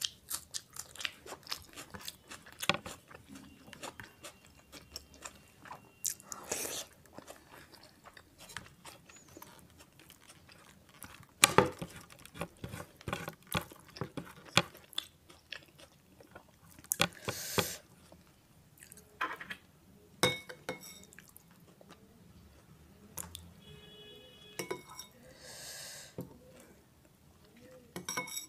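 Close-miked chewing of mouthfuls of mutton keema, rice and raw onion eaten by hand: irregular wet smacks, clicks and crunches, loudest about eleven seconds in.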